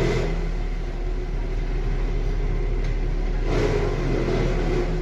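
Engine of a hydraulic crawler wood chipper running steadily, with a louder burst of noise about three and a half seconds in.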